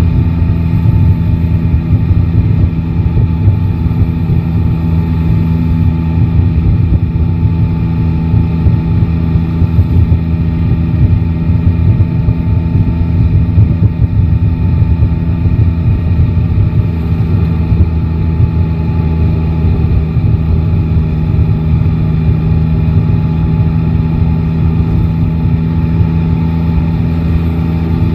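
Yamaha Tracer 9 GT's three-cylinder engine running at a steady pace while riding, the engine note holding nearly constant with no big revs.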